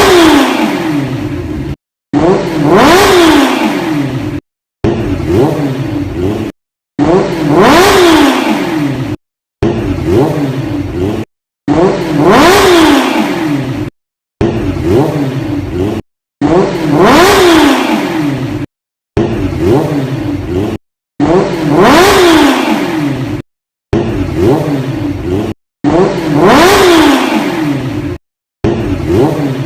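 Bajaj Pulsar 150 motorcycle engine blipped through an aftermarket SC Project exhaust. It is heard in repeated short revs about every two seconds, each rising sharply and then falling as the revs drop, with abrupt cuts to silence between them.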